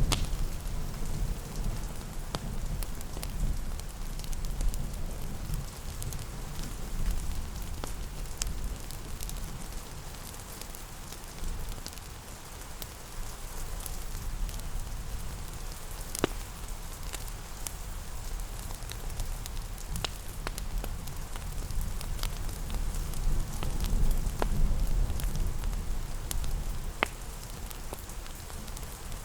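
Steady rain hiss with a low rumble that swells at times, mixed with a crackling wood fire: scattered sharp pops and snaps at irregular intervals.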